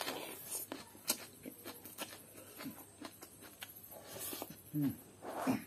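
Close-up eating sounds of a man chewing a mouthful of fried rice: many wet mouth clicks and smacks, a breathy slurp or inhale about four seconds in, and two short low hums near the end.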